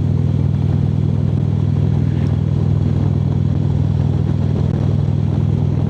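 Harley-Davidson V-twin motorcycle engine running steadily at highway cruising speed, a constant low rumble with no change in pace.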